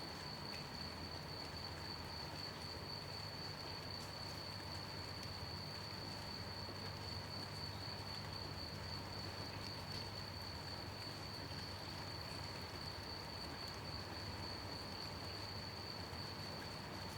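Gentle rain falling steadily, with crickets chirping in one continuous, even, high-pitched trill over it.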